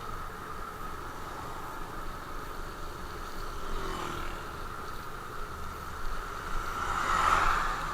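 Steady vehicle engine and road noise, swelling louder near the end.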